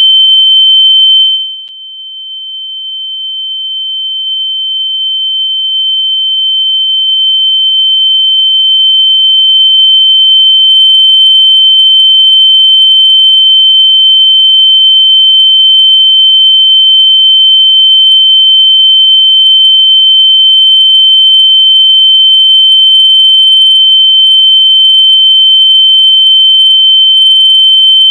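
A steady, loud, high-pitched electronic sine tone, played as a locating sound for lost AirPods. About a second and a half in, its volume drops sharply, then swells slowly back to full over the next several seconds.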